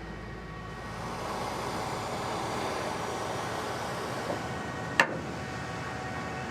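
Steady running noise of a vehicle, with one sharp click about five seconds in.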